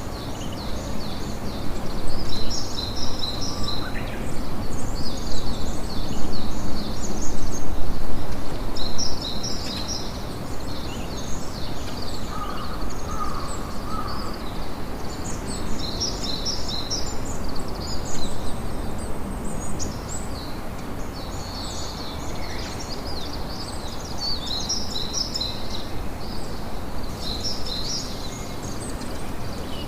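Campfire crackling steadily under birds chirping in quick high runs, with a few lower calls about twelve seconds in.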